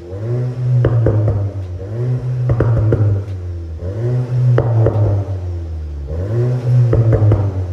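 Škoda Octavia RS's turbocharged four-cylinder (EA888 evo4) through an MS-R valved cat-back exhaust, revved in about four short blips, with pops and crackles from the exhaust as the revs fall after each one.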